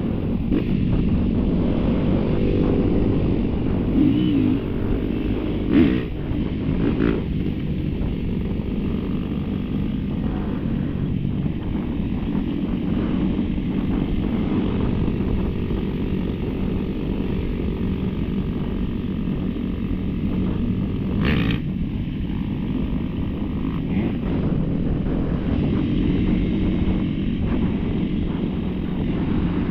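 Dirt bike engine running while riding, its note rising and falling with the throttle in the first few seconds, with wind buffeting the microphone. A few sharp knocks sound twice near the sixth second and once about two-thirds of the way through.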